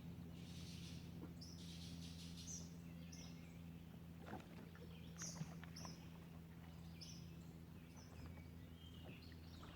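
Faint birds calling: short high chirps repeating every second or so, over a low steady hum.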